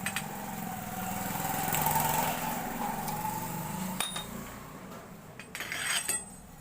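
A motor vehicle engine passing by: its sound swells to a peak about two seconds in, then fades away. A sharp metal click comes about four seconds in, and a short metallic rattle near the end.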